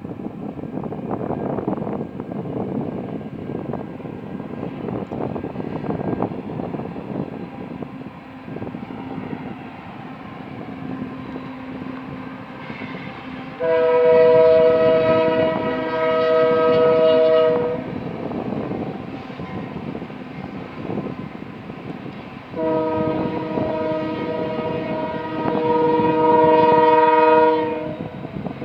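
Union Pacific intermodal freight train's diesel locomotives rumbling along the track. The locomotive air horn sounds a multi-note chord in two long blasts, one of about four seconds around the middle and a longer one of about five seconds near the end.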